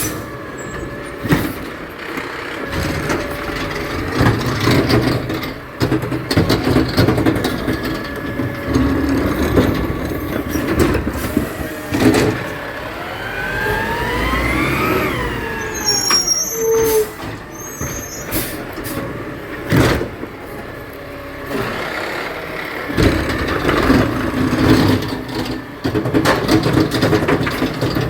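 Garbage truck working: its diesel engine running and revving under load, with scattered metal clanks. About halfway through a whine rises and then falls.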